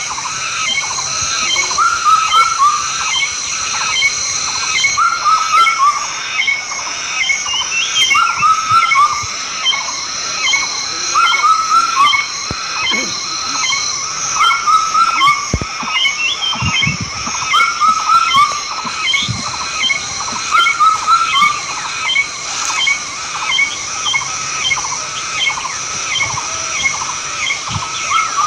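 Animal calls repeating in short runs every second or two through the whole stretch, over a steady high-pitched drone.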